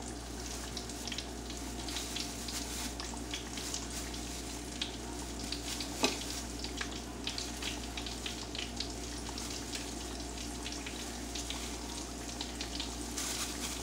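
Battered porgy and zucchini slices deep-frying in hot oil in a skillet: a steady sizzle with scattered crackling pops as more battered zucchini pieces go into the oil. One sharper tap about halfway through.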